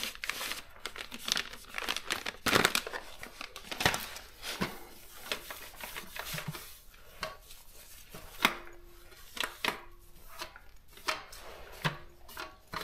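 Scratchy rubbing and irregular clicks from a Daro 20 typewriter being handled and cleaned. Several brief ringing clinks come in the second half.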